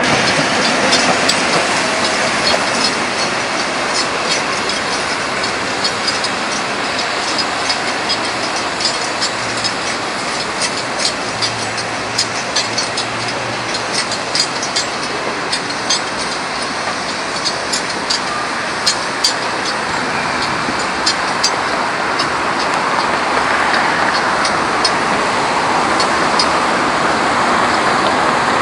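Electric commuter train passing slowly, a steady rolling rumble with many short sharp clicks from the wheels on the rails.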